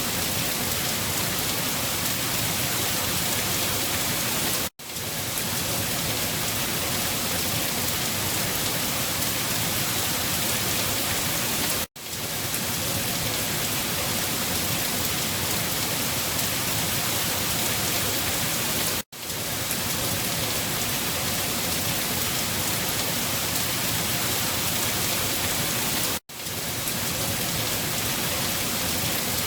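Steady rain falling, an even hiss of drops. The sound cuts out for an instant and fades back in four times, about every seven seconds.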